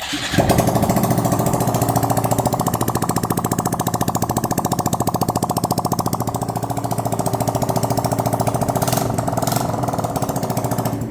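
Honda Monkey 125's single-cylinder four-stroke engine, breathing through a full exhaust system, catches right at the start and idles with a steady, even putter, then dies away at the end.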